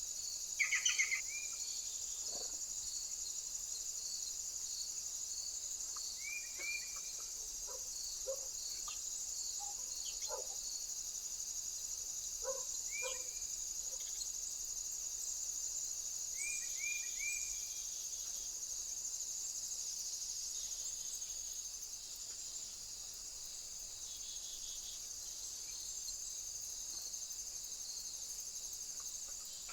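Steady high-pitched insect chorus, crickets trilling, with a softer pulse repeating a little faster than once a second that fades out about halfway. Short bird chirps break in a few times, most clearly near the start.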